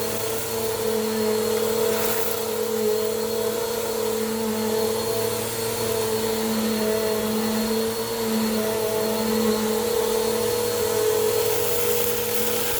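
Bissell PowerForce Compact upright vacuum running steadily: a constant motor whine over a rush of air, its pitch wavering only slightly.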